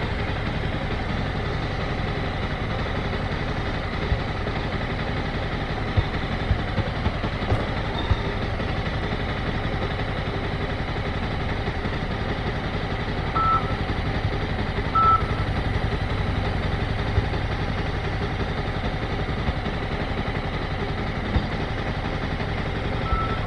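Motorcycle engine running steadily at low speed, with a few short beeps about halfway through and near the end.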